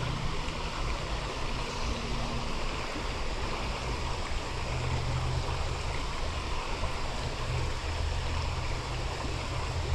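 Creek water running steadily over riffles, a continuous rushing noise.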